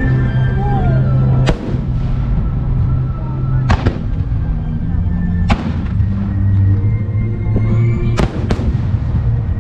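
Aerial firework shells bursting in sharp reports, about six over several seconds with two close pairs, over music played along with the display.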